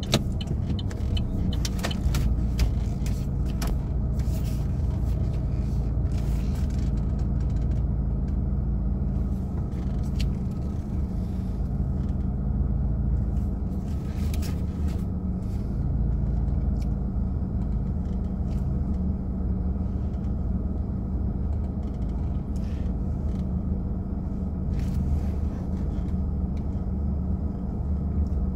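Car engine running at low speed, heard from inside the cabin as a steady low rumble, with scattered light clicks and knocks.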